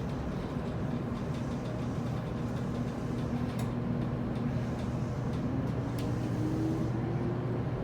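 JR Kyushu 811 series electric train setting off, heard from inside the car: a steady motor tone over the rumble of the car, then, about five seconds in, a whine that rises steadily in pitch as the traction motors speed up.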